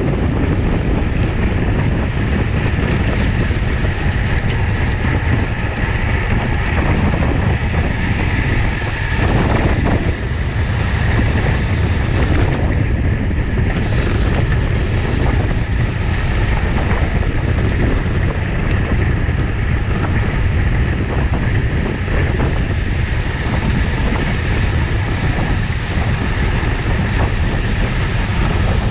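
Wind rushing over the camera's microphone while riding a road bike at race speed: a steady, loud rush with a heavy low rumble.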